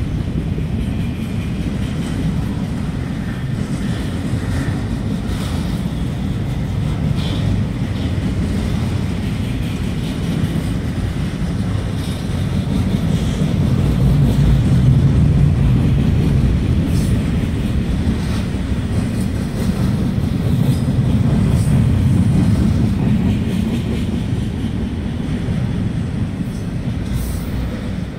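Double-stack intermodal freight train's well cars rolling past: a steady low rumble of steel wheels on rail with a few faint clicks, swelling louder about halfway through and then easing off.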